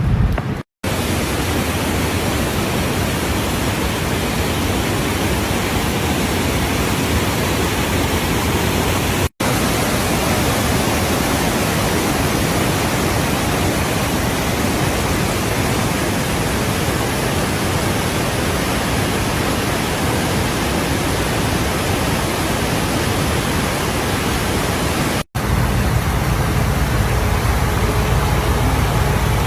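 Waterfall: a steady, even rush of falling water. It cuts out briefly three times, about a second in, around nine seconds in and about 25 seconds in, and after the last gap there is more low rumble.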